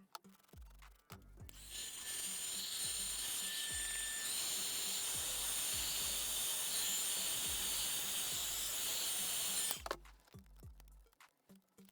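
A repair tool runs for about eight seconds, a loud high-pitched hiss with a faint steady whine in it, starting about one and a half seconds in and cutting off suddenly near the end. Background music with a steady beat plays under it.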